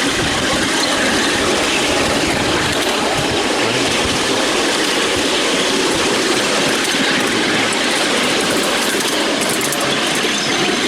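Miniature railway train hauled by a miniature BR Class 31 locomotive, running along the track as heard from a riding car: a steady, even rumble and rush of wheels on rail.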